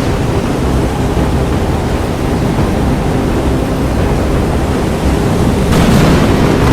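Strong wind buffeting the microphone: a loud, steady rushing noise that swells briefly about six seconds in.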